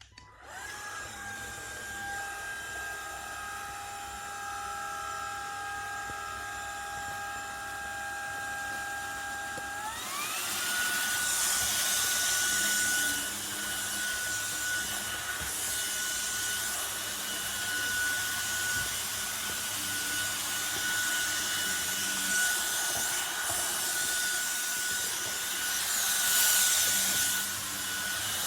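MONSGA cordless stick vacuum's brushless motor switched on, running with a steady high whine over rushing air. About ten seconds in the whine glides up in pitch and the airflow grows louder as the vacuum steps up to a higher power setting.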